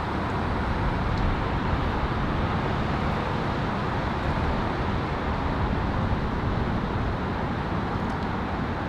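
Steady low rumble of vehicle engines under an even hiss, with no distinct events.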